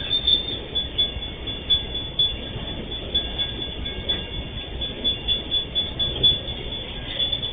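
Empty MRS Logística freight wagons rolling past over the rails: a steady rumble of wheels with uneven knocks and clatter.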